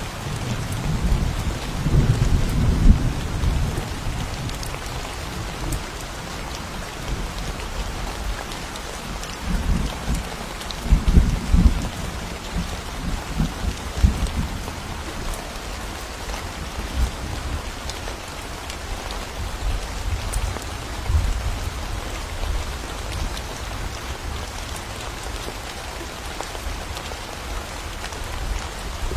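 Steady rain falling in a forest during a thunderstorm, with low rolls of thunder swelling about two seconds in, again around ten to twelve seconds, and more softly near twenty seconds.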